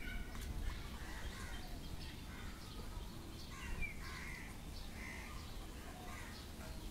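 Birds calling: scattered short calls and chirps, a few louder ones near the middle and end, over a steady low rumble.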